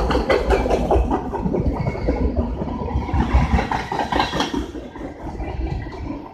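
Norfolk Southern train passing: a steady rumble with rapid clicking and clatter from the wheels and cars, fading over the last few seconds as it moves away.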